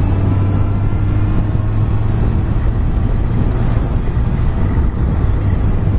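Honda CBR1100XX Super Blackbird's 1137 cc inline-four engine running steadily while riding, its exhaust a low burble, with a steady rush of wind over it.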